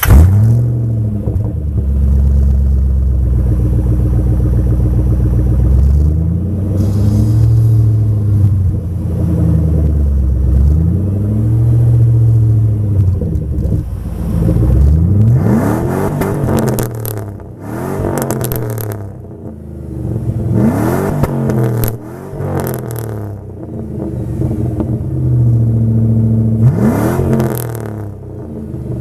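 2000 Jeep Grand Cherokee WJ's 4.7-litre V8 exhaust with no muffler, only the stock catalytic converter, loud and deep. It fires up right at the start and idles, then is revved about five times, the pitch climbing and falling back with each blip.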